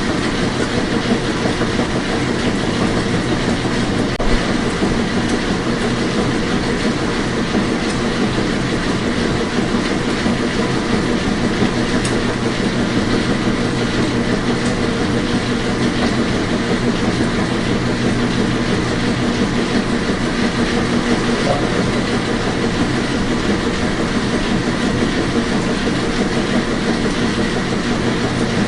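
Washing machine running: a loud, steady mechanical hum and whir with a fine, fast clatter, unchanging throughout.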